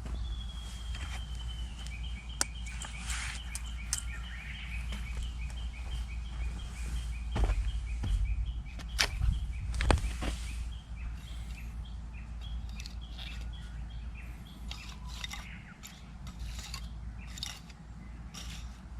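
Japanese bush warbler singing: one long held whistle, then a rapid run of alternating two-pitch notes lasting several seconds, with scattered notes later. Sharp pops and crackles from a wood campfire run underneath, with a few loud cracks midway, over a steady low rumble.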